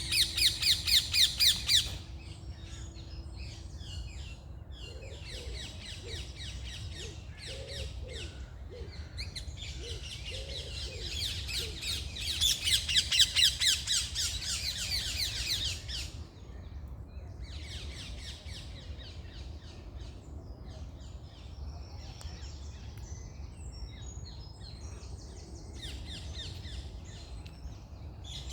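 Several wild birds singing and chirping in a morning chorus. A loud, fast trill comes twice, near the start and again in the middle, over a steady low rumble.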